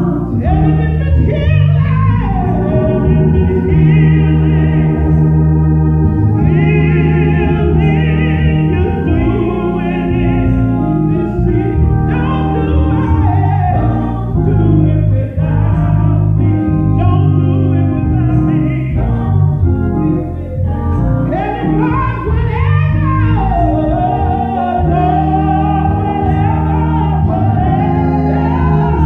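Gospel song: a singer's voice gliding and bending over sustained keyboard and bass chords.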